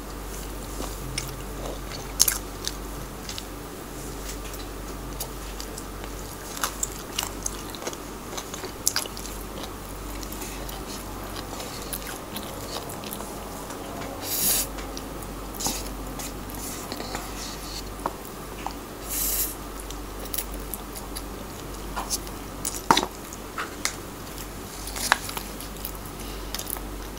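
Close-up eating sounds: chewing and biting on kimchi and spicy instant noodles, with small wet clicks throughout. There are two longer slurps of noodles, one about halfway through and one a few seconds later.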